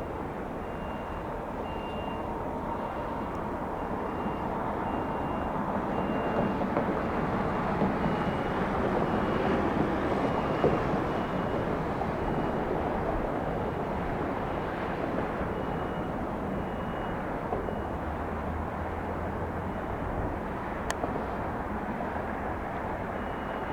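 Mitsubishi CRJ-900 regional jet's twin rear-mounted turbofans on the landing roll, a steady jet rumble that swells to a peak about ten seconds in and then eases off.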